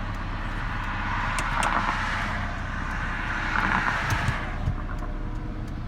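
Two cars pass by on the road, each swelling and fading, heard from inside a Saab 900 whose cold engine idles steadily just under 1,000 rpm without hunting.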